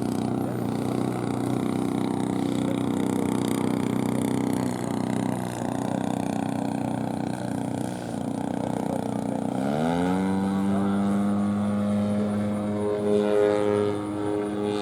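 GP123 gas engine of a 140-inch RC Bushmaster aircraft running steadily with its propeller, then throttled up about ten seconds in to a higher, steady pitch. The pitch falls again at the very end.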